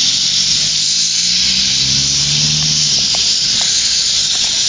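Quarry Hunslet steam locomotive venting steam with a loud, steady hiss.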